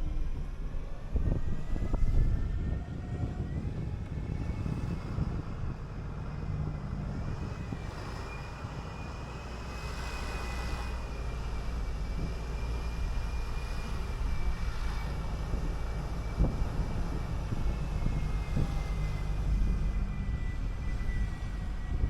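City transit bus driving along, a steady low engine rumble under a high drivetrain whine that rises a little in the first seconds and eases slightly near the end.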